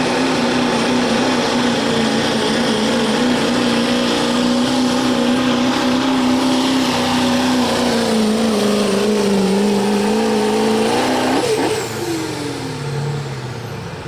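Diesel pickup truck engine running at high revs under load while pulling a sled. Its pitch sags as the load builds, then it lets off suddenly near the end and winds down.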